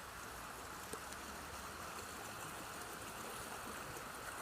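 A small river running, a steady rush of flowing water.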